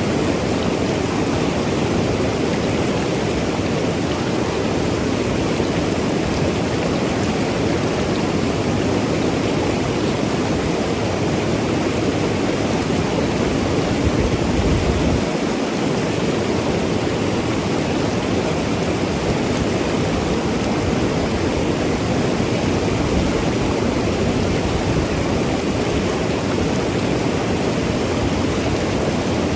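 Mountain river rushing and gurgling steadily over rocks, with a brief low rumble about halfway through.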